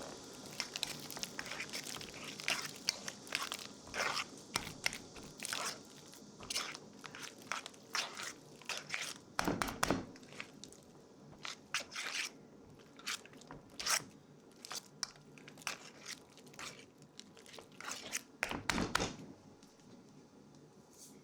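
Irregular crisp crunching and crinkling from hands at work on baking ingredients, with a few louder crunches scattered through.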